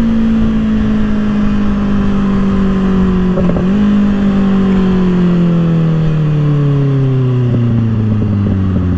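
2024 Kawasaki ZX-6R's 636 cc inline-four through an M4 exhaust, heard from the rider's seat as the bike slows: after a short jump in engine note about three and a half seconds in, at a gearchange, the pitch falls steadily as the revs drop. Wind noise runs underneath.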